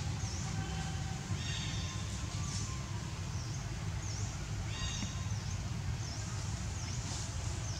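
Birds chirping: short high notes repeated every second or so, with a few brief whistled notes among them, over a steady low rumble.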